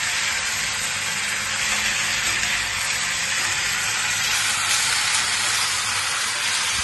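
Round potato slices sizzling steadily in hot oil in a pan, stirred with a spatula.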